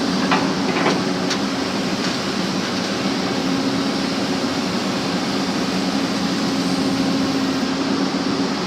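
Backhoe engine running steadily, with a few short knocks in the first second and a half.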